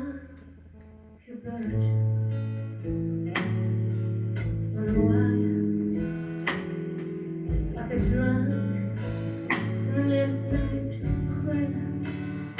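Live band music led by acoustic guitar strumming, with low bass notes and no singing. It comes in strongly about a second in after a quiet moment, with sharp accented strokes every few seconds.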